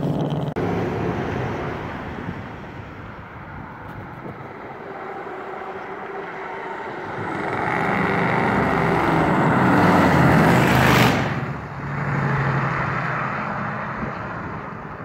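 A vehicle driving past, most likely the Bravada's swapped-in 5.7 Vortec V8 on its custom exhaust. The engine and exhaust note grows louder to a peak about eleven seconds in, drops off sharply, then fades away.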